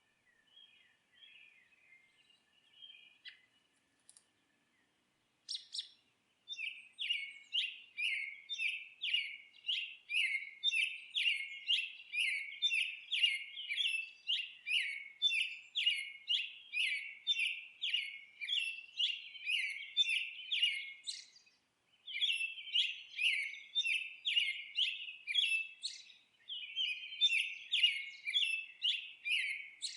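Songbird singing a long run of repeated short chirping notes, about two a second, with two brief pauses, one about three-quarters of the way through and another near the end. Fainter bird calls come before the song starts, about six seconds in.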